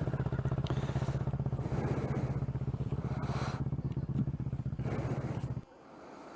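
Kawasaki ER-6n parallel-twin motorcycle engine running steadily at low revs, with an even pulsing beat. It cuts off abruptly near the end.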